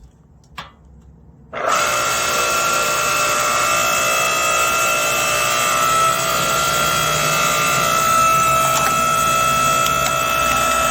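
Tiya 8-ton hydraulic log splitter starting up suddenly about a second and a half in, then running with a loud, steady whine.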